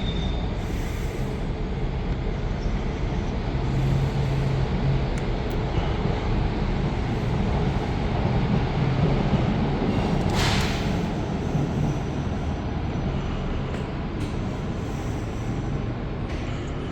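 A train at a station platform, a steady low rumble and hum, with a short hiss about ten seconds in.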